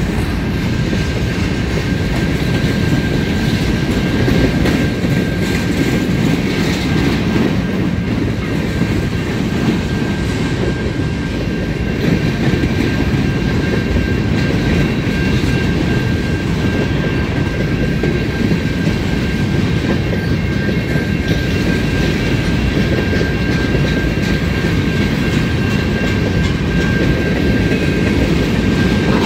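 A train rolling steadily past at a level crossing, its cars' wheels rumbling and clacking over the rail joints, with a steady high tone running under it.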